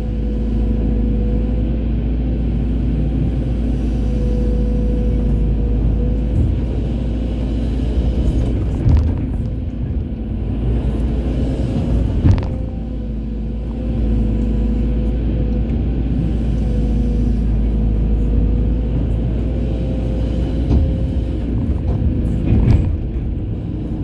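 Hydraulic excavator running under load: a steady engine drone with a constant hydraulic whine, broken by a few sharp knocks, the loudest about twelve seconds in.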